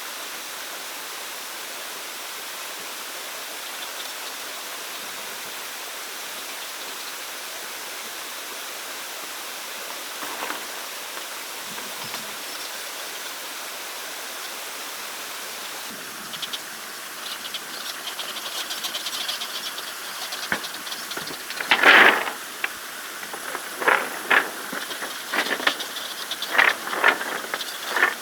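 A steady rushing hiss, like running water, then from about two-thirds of the way in a series of sharp crackling rustles and knocks, the loudest one near the end.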